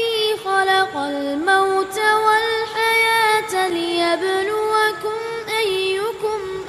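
A single high voice, a woman's or a child's, chanting Quranic verses in long held notes with ornamented turns between them: melodic Quran recitation (tilawah), unaccompanied.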